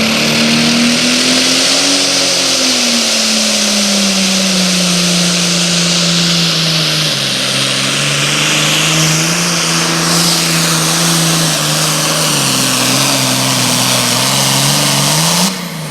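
Pulling tractor or truck engine at full throttle during a sled pull. Its pitch climbs for about two seconds, then sags and wavers lower as the load builds, over a loud hiss. It drops off suddenly near the end.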